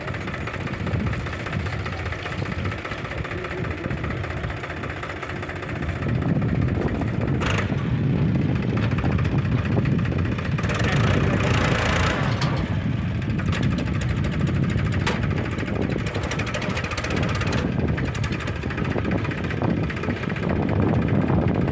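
Heavy diesel machinery engine running steadily, growing louder about six seconds in, with a brief rushing noise near the middle.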